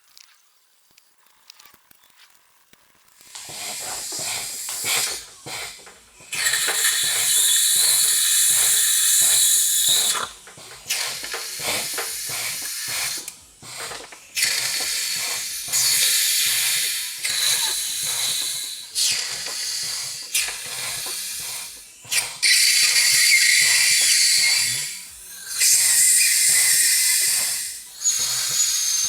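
Long bursts of loud, pressurised hissing, several seconds each, over a rapid run of small clicks or taps.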